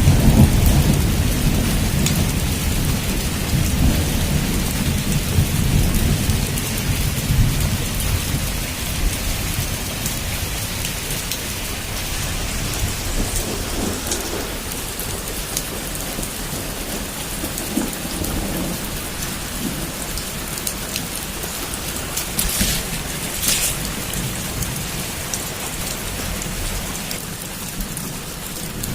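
Heavy rain falling steadily in a thunderstorm. A long low rumble of thunder fills the first several seconds and then dies away, and a couple of sharper crackles come about two-thirds of the way through.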